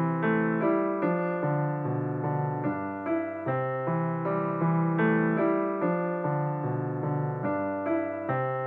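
Background music: a piano-like keyboard playing calm, evenly paced notes, about two a second, each one fading away.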